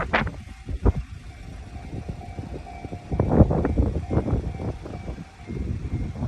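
Train passing over a Japanese railroad crossing, its wheels clattering irregularly over the rail joints, loudest about three seconds in. The crossing's warning alarm rings throughout.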